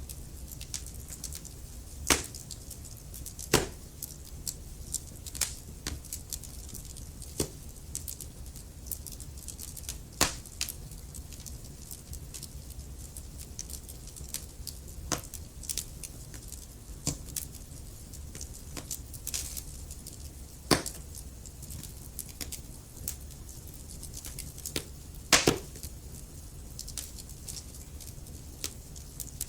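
Wood fire crackling in a fireplace: irregular small snaps and pops, with a handful of louder cracks scattered through, over a steady low rumble.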